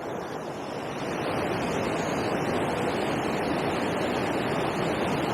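Steady rush of flowing river water, getting louder about a second in and then holding even.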